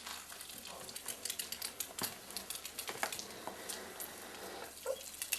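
Six-week-old smooth collie puppies moving about, making scattered light clicks and taps, with a brief faint squeak near the end.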